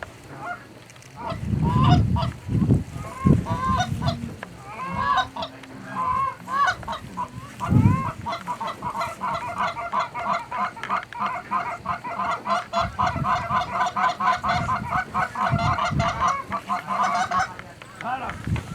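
Canada geese honking: separate rising-and-falling honks at first, then from about eight seconds in a fast, steady run of short honks, about five a second, until near the end.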